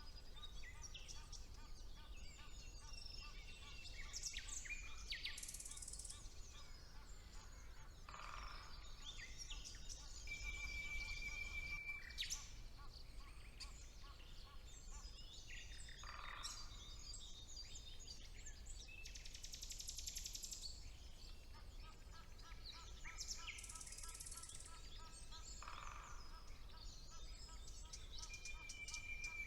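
Several woodland songbirds singing at once in a spring chorus, with rapid trills and chirps. One long flat whistled note is held for about two seconds, once a third of the way in and again near the end. A faint low rumble lies underneath.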